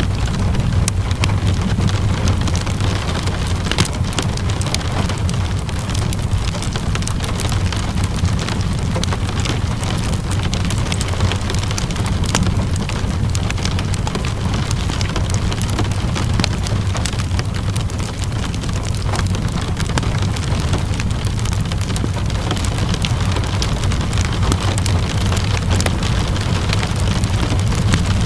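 Steady rainfall mixed with a crackling wood fire: an even hiss with a constant low rumble beneath it and many small sharp crackles and drips scattered throughout.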